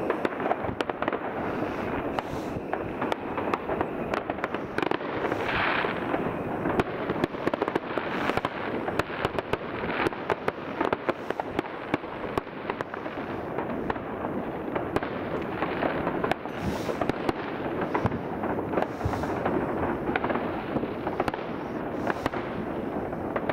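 Many fireworks going off at once across a town: a continuous crackle of firecrackers and rocket bursts, with frequent sharper bangs standing out.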